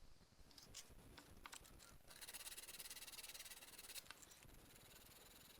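Near silence with a few faint clicks, then faint rapid scratching for about two seconds in the middle.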